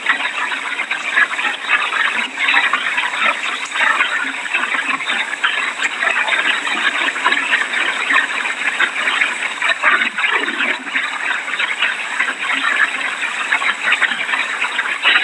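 Heavy rain pouring down in a steady, loud rush, as an approaching hurricane's rain bands arrive.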